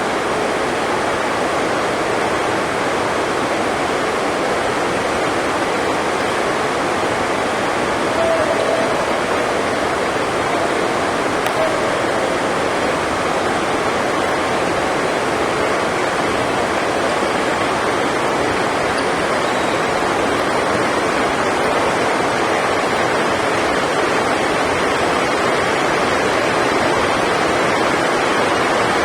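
Heavy rain drumming steadily on the sports hall roof: an even, unbroken hiss.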